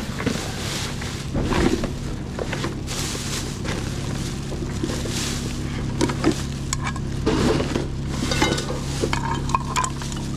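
Rummaging through discarded items: hard objects clinking and clattering, with rustling, irregularly throughout, over a steady low hum.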